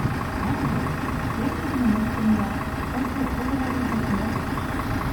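Mitsubishi Fuso Aero Star city bus diesel engine idling steadily, with a light regular ticking about four to five times a second over the rumble.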